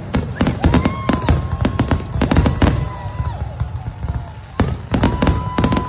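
Fireworks display: a rapid, irregular series of bangs and crackles from aerial shells bursting overhead.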